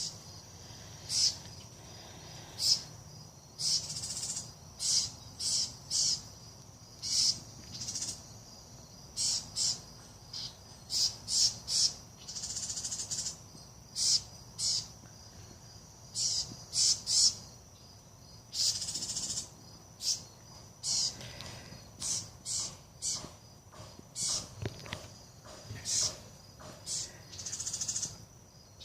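Several small songbirds giving repeated alarm calls, scolding a cat: short, sharp high calls one after another, at times several a second, with a few longer, harsher calls mixed in.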